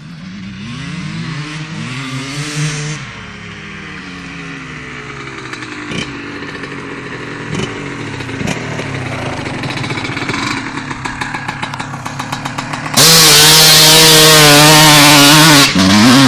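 Two-stroke dirt bike engines (a Honda CR250 and a KTM EXC 300) accelerating hard, their pitch climbing and dropping through gear changes, then running on more steadily. About 13 seconds in, a bike at high revs becomes suddenly very loud and close, with a brief break just before the end.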